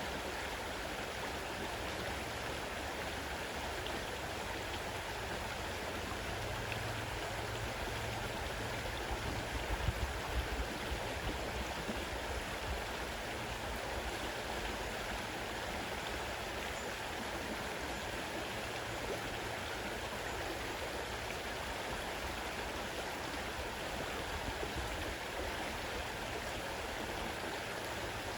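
Fast-running river, its water rushing in a steady, even stream, with a few low thumps about ten seconds in.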